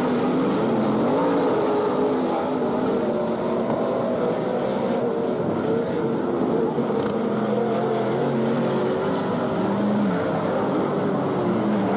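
A pack of sprint cars racing, their V8 engines running hard together, with pitches rising and falling as they come on and off the throttle.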